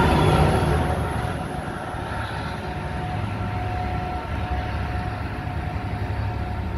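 Diesel-electric freight locomotives passing close by. A steady low engine rumble drops in level about a second in, then carries on steadily as the train draws away.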